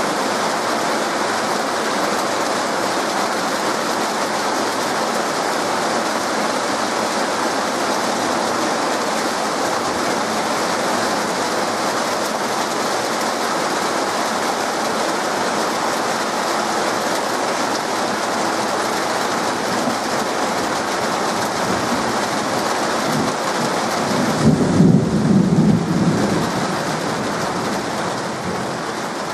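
Heavy rain falling steadily, with a short, low rumble of thunder near the end lasting about two seconds.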